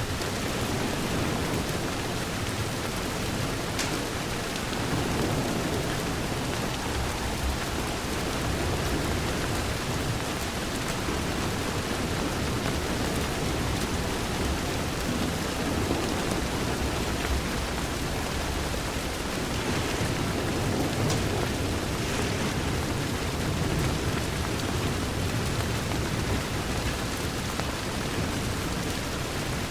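Steady heavy rain falling against a window, with low rumbles of distant thunder swelling now and then.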